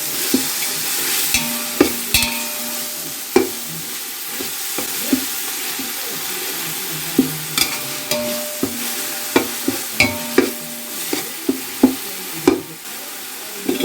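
Onions and ginger-garlic paste frying in ghee and oil: a steady sizzle, with irregular clicks and knocks of a spoon scraping the pan as the mixture is stirred to keep it from sticking.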